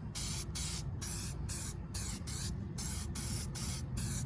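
Aerosol can of copper spray gasket sealant hissing in many short, repeated bursts as it coats a reused gasket.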